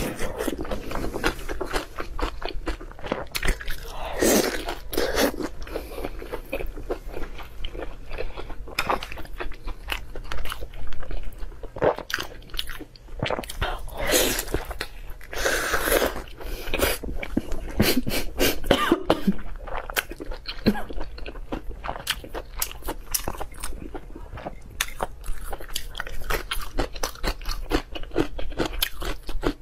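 Close-miked biting and chewing of red-braised pork belly, a dense run of small mouth clicks with louder bites every few seconds.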